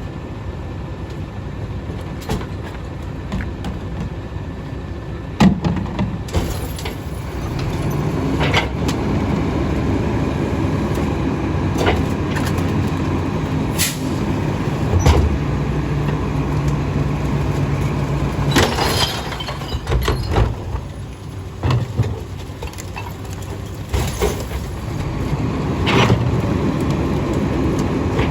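Split-body garbage truck's engine and hydraulic packer running while it packs trash, growing louder and steadier from about a quarter of the way in, with repeated sharp bangs and clanks of bins and rubbish.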